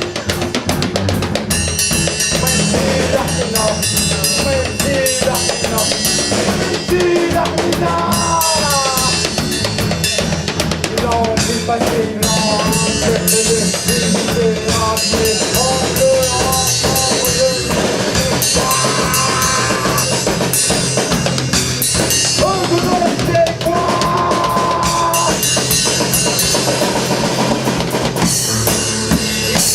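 Band music led by a drum kit playing a steady beat with kick drum, snare and rimshots, over a bass line and a melody with sliding notes.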